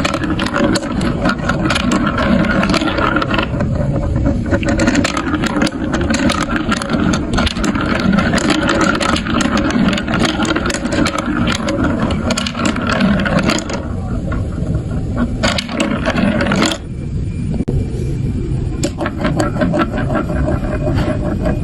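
Marbles rolling down a plastic marble run block track: a continuous rolling rumble with many sharp clicks as the marbles knock against the pieces and each other.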